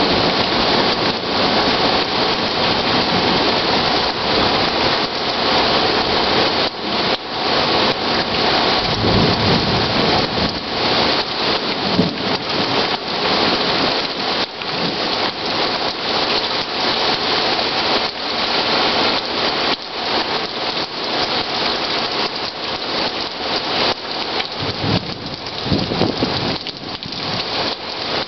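Heavy rain falling steadily, with many close drops ticking on a nearby surface. Low rumbles of thunder come about nine seconds in and again near the end.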